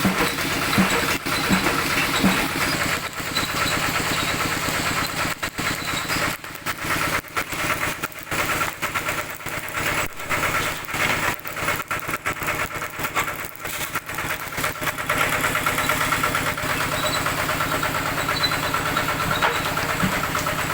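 Old Kubota tractor engine running steadily with a fast, even pulsing, its level wavering for a stretch in the middle.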